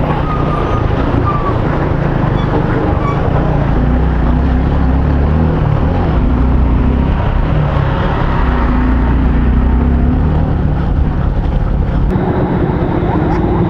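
Motorcycle engine running under way, its low note shifting slightly with the throttle, with wind buffeting the microphone.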